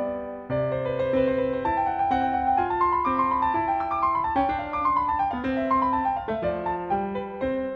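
Background piano music: a gentle melody of single notes stepping up and down over lower held notes.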